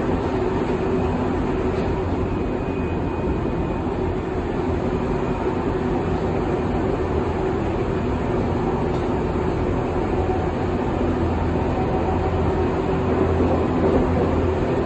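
Berlin U-Bahn U3 train running at steady speed between stations, heard from inside the car: a steady rumble of wheels on the track with a constant hum.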